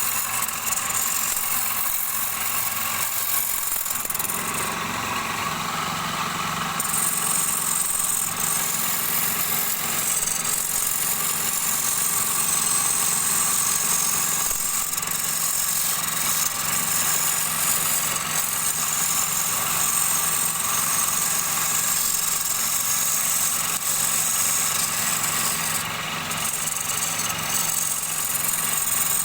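Wood lathe running steadily: a continuous motor hum with a high hiss over it.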